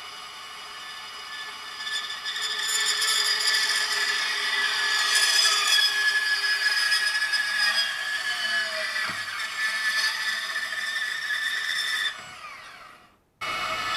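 DeWalt DCS374 cordless deep-cut band saw running with a steady motor-and-blade whine. It gets louder about two seconds in as it cuts, winds down near the end and cuts off abruptly, then a similar saw sound starts again.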